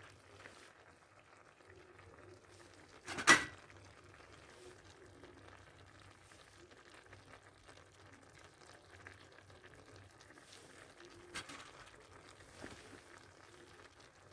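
Clay tajine simmering and faintly sizzling over a charcoal brazier, with one sharp knock about three seconds in and two lighter knocks near the end.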